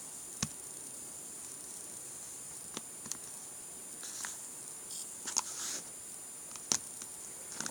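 A few sharp single clicks, spaced irregularly a second or two apart, with short rustling taps between them, over a steady electronic hiss and a faint high whine.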